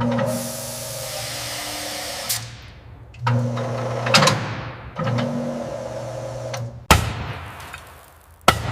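A motorised power tool running in three short bursts of hissing with a low hum, then two sharp knocks.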